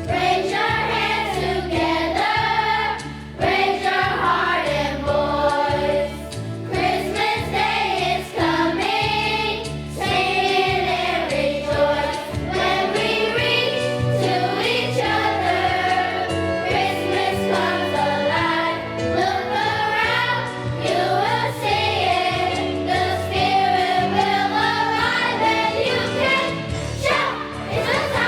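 A student choir singing a holiday song with instrumental accompaniment.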